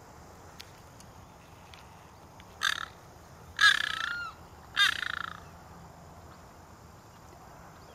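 A large bird giving three loud, harsh, rasping calls about a second apart, the middle one the loudest and longest.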